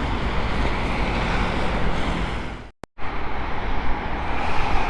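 Steady outdoor traffic and road noise, with a brief complete dropout to silence about three seconds in.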